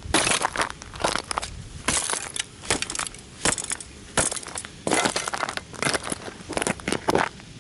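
A die-cast model toy car being crushed under stomping rugby boots: repeated crunching and crackling as the plastic and metal body breaks, about one to two stomps a second.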